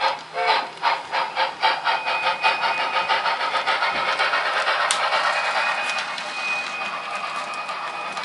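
Model steam locomotive's sound unit chuffing as it pulls away, the chuffs quickening from distinct beats into a steady rush.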